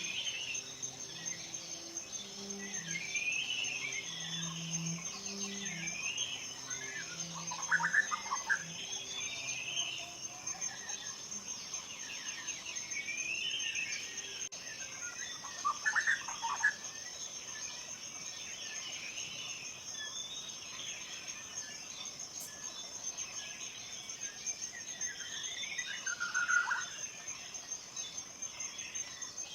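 Forest ambience: several birds singing and calling in short sweeping phrases, with a steady high insect drone underneath. There are three louder calls, at about 8, 16 and 26 seconds. Soft, low sustained notes sound during the first ten seconds.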